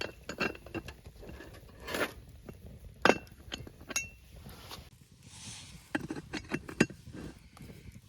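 Metal camp cookware and utensils clinking: a string of light, sharp taps and knocks, a few leaving a short ring, in two clusters with a brief lull in the middle.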